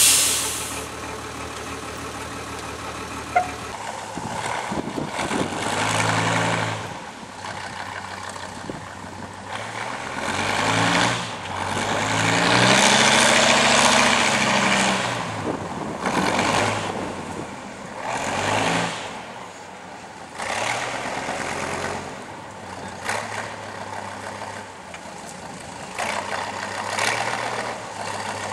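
Competition trial truck's diesel engine revving in repeated bursts as it works over rough ground, its pitch climbing and falling several times, with the longest and loudest rev about halfway through. A short sharp burst of noise sounds at the very start.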